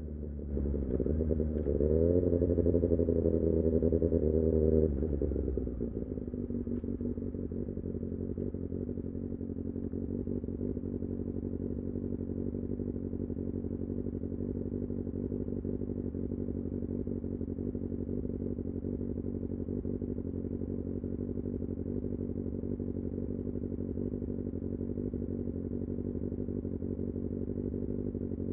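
Kawasaki Ninja ZX-6R's inline-four engine: it revs up, rising in pitch and getting louder for a few seconds. About five seconds in it drops back and then runs at a steady, even low speed.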